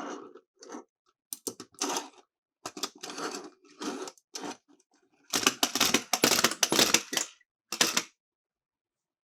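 Miniature toy cars rattling and clicking as they roll along a hard slope, in several short bursts, with the longest and loudest about five to seven seconds in.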